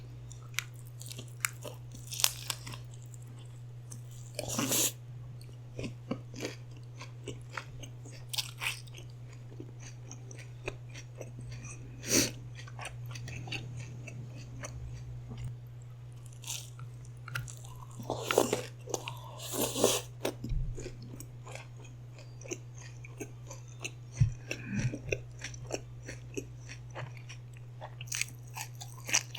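Close-miked eating: irregular biting and chewing with crisp crunches and wet mouth clicks, a few longer chewing bursts among them, over a steady low hum.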